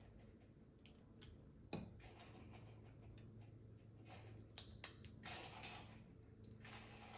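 Faint eating sounds of prawns being eaten by hand: scattered small clicks, smacks and soft chewing noises.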